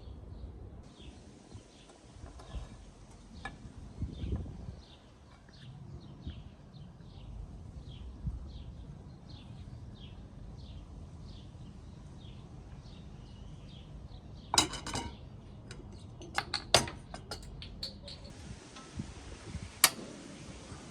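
A bird calling over and over, short chirps about one and a half a second. In the last third, several sharp clinks of kitchen utensils against dishes.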